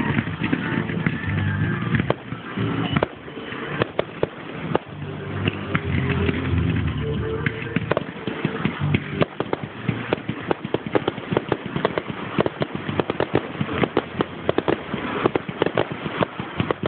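Fireworks display: a run of crackling bangs and cracks that thickens about eight seconds in into a dense, rapid barrage. Music plays underneath during the first half.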